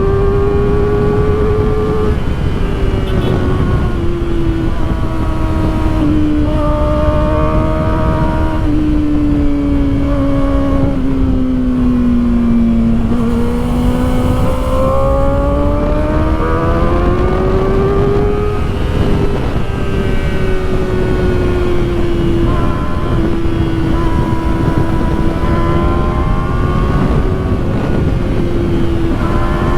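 Kawasaki Ninja ZX-4RR's inline-four engine running at high revs while riding, its pitch falling and rising with the throttle: lowest about thirteen seconds in, climbing again by eighteen seconds. Steady wind and road noise underneath.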